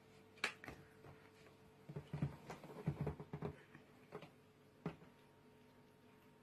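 Cats eating from dishes: scattered light clicks and taps, with a cluster of soft knocks about two to three and a half seconds in.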